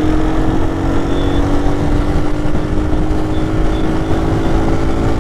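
Lifan KP motorcycle engine cruising at a steady pitch, under heavy wind rumble on a helmet-mounted microphone.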